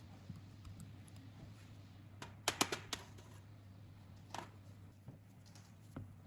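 Workshop handling of small tools or parts: a quick run of four or five sharp clicks about two seconds in, a softer sound a little later and one more click near the end, over a low steady hum.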